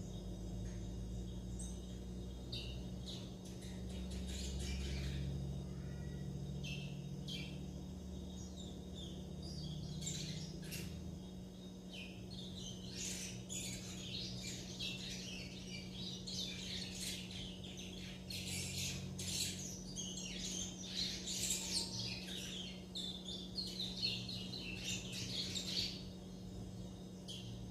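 Young curiós (chestnut-bellied seed finches) chirping and twittering in a rambling practice song, scattered at first and busier and louder through the second half, over a steady low hum.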